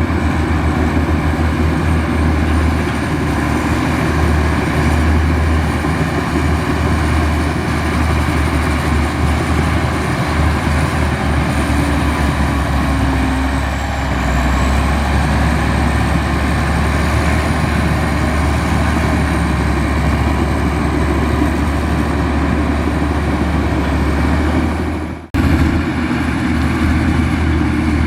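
Komatsu bulldozer's diesel engine running steadily with a deep, heavy hum. It briefly cuts out near the end, then carries on.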